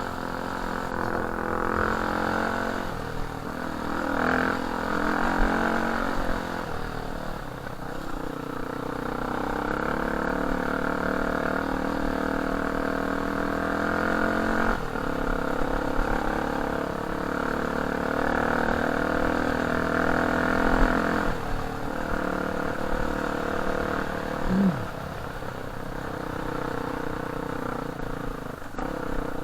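Off-road dirt bike engine running under way, its note rising and falling with the throttle over the ride.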